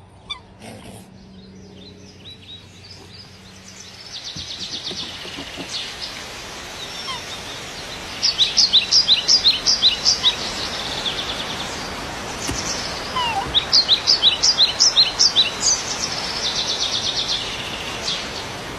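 Small songbirds singing over a steady outdoor hiss: a high buzzy trill, then two bursts of quick high chirps, about four a second, a few seconds apart, and another trill near the end.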